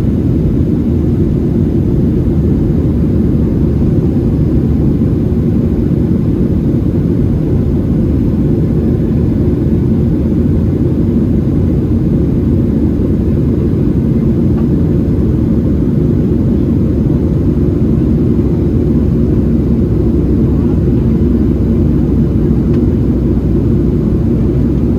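Cabin noise of a Boeing 737-700: its CFM56-7B jet engines heard from a window seat as a loud, steady low drone that doesn't change.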